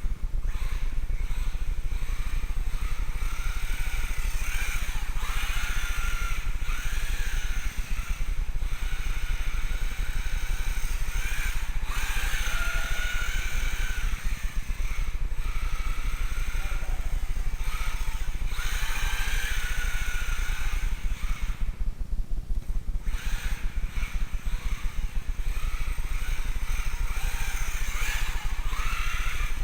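Electric motor and drivetrain of a 1/16-scale four-wheel-drive RC rally car whining in repeated bursts, rising and falling in pitch as the throttle is worked. A steady low rumble runs underneath, and the whine drops out briefly about two-thirds of the way through.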